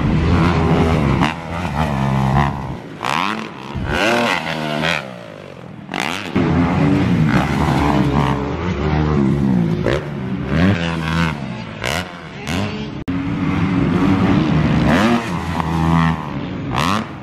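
Dirt bike engine revving hard and easing off again and again as it rides around a motocross track, the pitch climbing and dropping with each throttle blip and shift. The sound fades about five seconds in and comes back loud.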